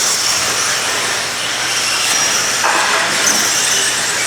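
Radio-controlled stadium trucks racing, their motors running with a steady high-pitched whine.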